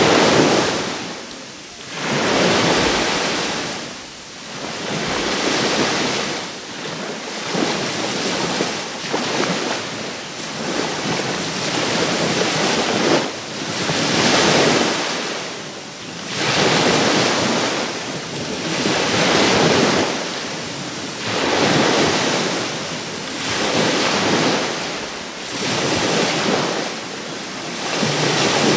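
Small sea waves breaking on the shore one after another, each swell of surf rising and washing out every two to three seconds.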